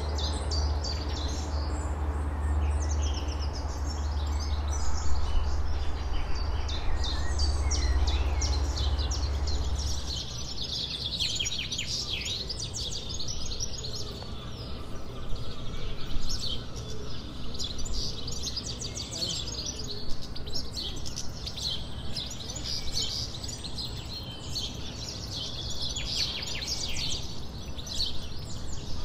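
Wild birds singing, a busy mix of quick chirps and trills from several birds. A steady deep rumble lies under them and stops abruptly about ten seconds in.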